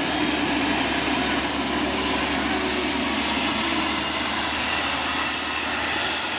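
Heavy diesel truck engines running hard and steady under load, as one truck pushes another, heavily loaded truck uphill.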